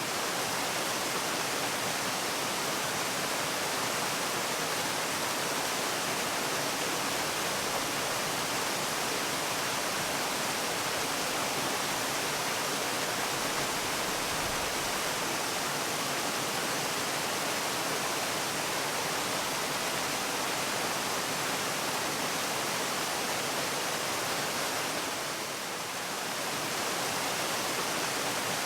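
Waterfall: a steady, even rush of falling water, dipping slightly in level for a moment near the end.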